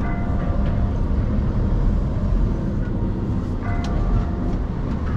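Scania skip truck on the move, a steady low engine and road rumble from inside the cab. Short higher-pitched tones sound near the start and again about four seconds in.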